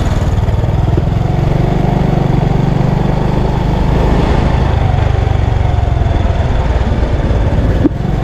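Motorcycle engine running steadily while riding, with wind rushing on the microphone; the sound breaks off for an instant near the end.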